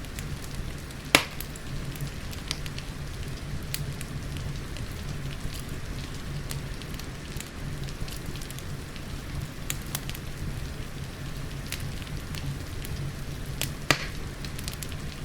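Wood fire crackling with scattered small snaps and two loud pops, one about a second in and one near the end, over a steady patter of rain and a low rumble.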